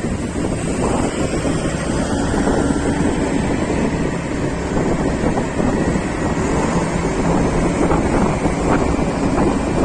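Wind buffeting the microphone on a moving vehicle, a steady loud rush with the low drone of the vehicle and road underneath.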